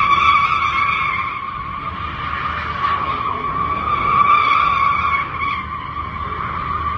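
Tyres squealing steadily as a Hemi V8 Dodge Daytona spins its wheels, a high squeal that swells again about four seconds in. The engine rumbles underneath.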